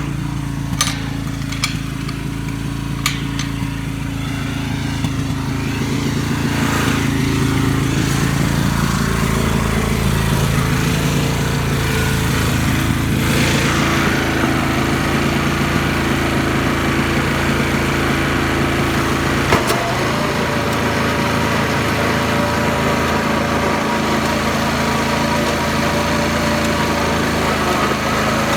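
Garden tractor engine running, with a few sharp clicks in the first three seconds. It gets louder about six seconds in and changes pitch several times before settling into a steady drone.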